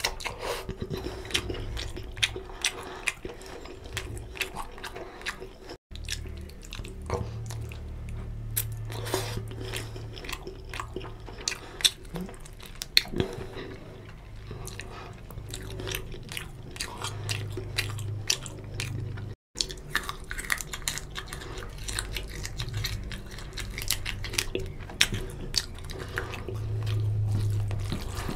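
Close-miked chewing and biting of chicken curry and rice eaten by hand, with many wet mouth clicks and smacks as meat is pulled off a chicken drumstick. The sound drops out briefly twice.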